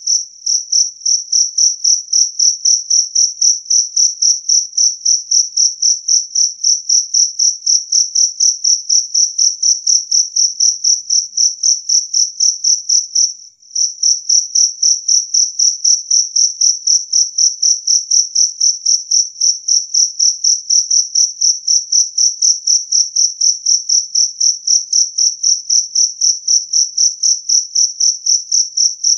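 Jangkrik kalung (two-spotted field cricket) calling: a loud, clear, high-pitched chirp repeated evenly about three times a second, with one brief break about halfway through.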